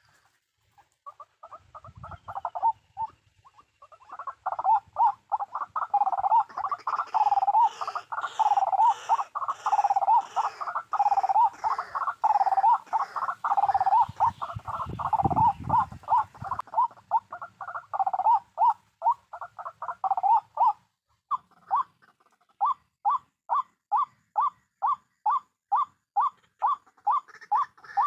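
White-breasted waterhen (ruak-ruak) calling: a fast run of repeated croaking 'kruak' notes, dense and overlapping through the middle, then an even train of about three notes a second near the end. A brief low rumble comes about halfway.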